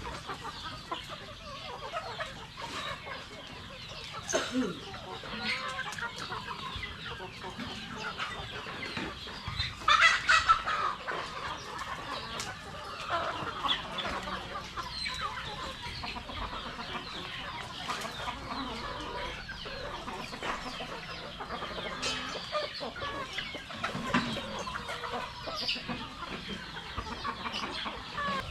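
A flock of Rhode Island Red chickens clucking, many short calls overlapping, with one louder burst of calls about ten seconds in.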